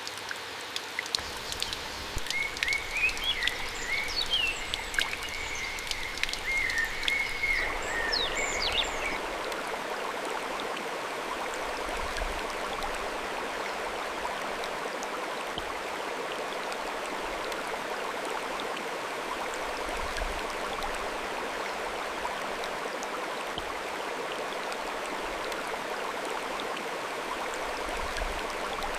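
Steady rush of a flowing stream, with a series of chirping calls from a small animal in the first third.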